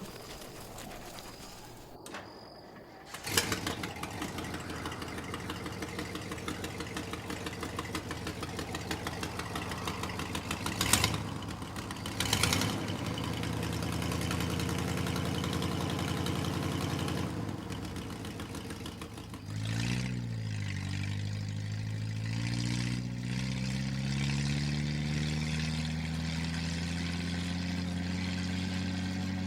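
A car engine starts about three seconds in and runs with an even, rhythmic chug, with two short louder bursts around eleven and twelve seconds. From about twenty seconds in its pitch climbs steadily as the vehicle pulls away and accelerates.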